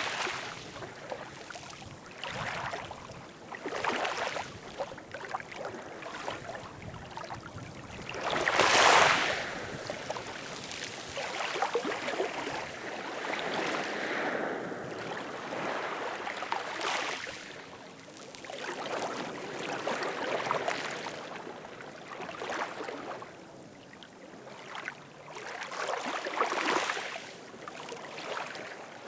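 Ocean waves washing in, the rushing noise swelling and falling every few seconds, loudest about nine seconds in.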